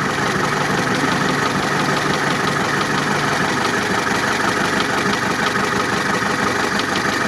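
A 1962 GAZ-69's engine idling steadily. It is running while its glass fuel-filter bowl fills only slowly, which the owners take for a weak fuel pump or a clogged fuel line.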